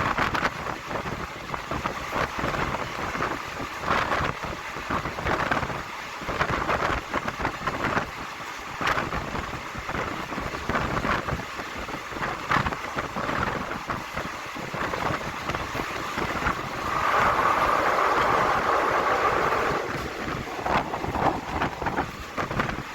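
Passenger train running at speed, heard from on board: wheels knocking irregularly over the rails under a steady rush of wind and running noise. The rushing swells louder for about three seconds near the end.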